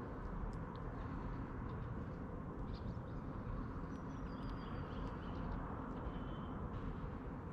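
Small wild birds calling faintly now and then, a few short high chirps and brief whistled notes, over steady low outdoor background noise.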